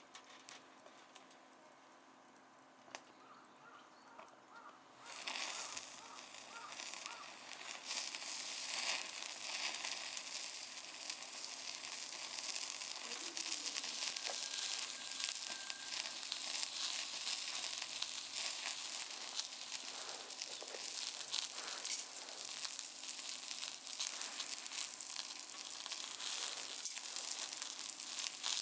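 Meat sizzling on a small portable grill: a steady sizzle with fine crackles and pops that starts suddenly about five seconds in, after a near-quiet start.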